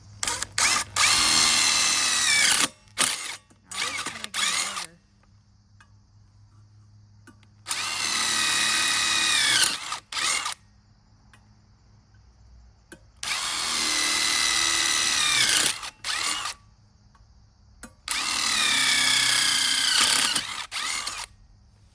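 Power drill boring holes into the solid metal plate inside a pit bike's muffler. It runs in four spells of about two to three seconds, with a few short bursts after the first. At the start of each spell the motor's whine drops in pitch as the bit bites into the metal, then holds steady.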